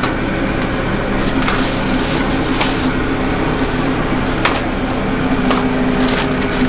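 Steady hum of food-truck kitchen machinery, such as fans or a generator, with occasional sharp clicks and knocks of work going on.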